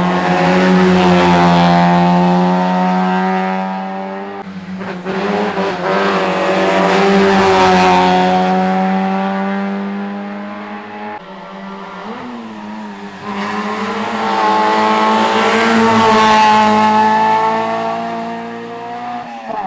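Historic rally cars' engines running hard at high revs on a closed stage. The sound swells and fades three times as the cars come and go, with tyre squeal in places.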